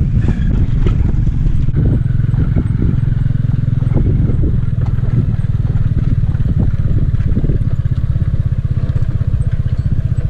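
Motorbike engine running steadily under way, a dense low rumble with fast even firing pulses, with scattered knocks and rattles.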